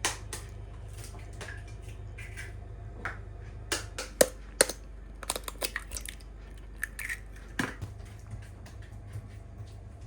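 Handling noises: a scattering of short, sharp clicks and knocks, thickest about halfway through, over a steady low hum.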